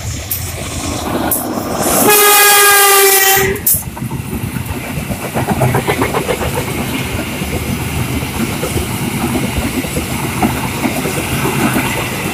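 Passenger train sounding a single loud, steady horn blast of under two seconds, about two seconds in. The wheels then keep rumbling and clacking over the rail joints as the train runs on.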